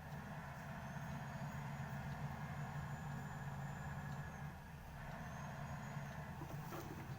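Steady car engine and road noise while driving, a low hum under an even rushing haze. A faint high whine comes in about a second in and again near six seconds.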